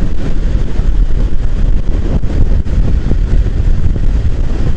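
Motorcycle on the move: heavy wind rush on the microphone over a steady drone of engine and road noise.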